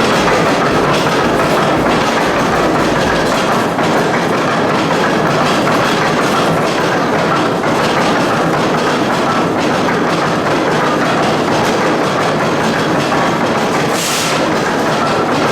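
Old steam-powered machinery running with a steady, loud mechanical noise, with a short hiss near the end.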